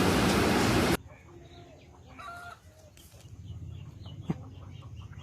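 A loud, even rushing noise that cuts off abruptly about a second in, followed by quieter short bird calls, clucking like fowl, and a single sharp click near the end.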